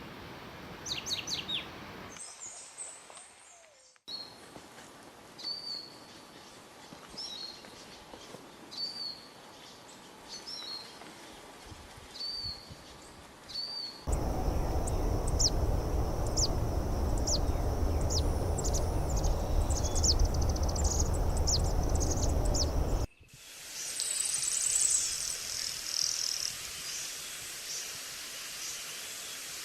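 Wild birds calling in a run of spliced recordings of different species. First come short whistled notes repeated every second or so, then quick, sharp high chips over a loud steady rumble, then a high chattering.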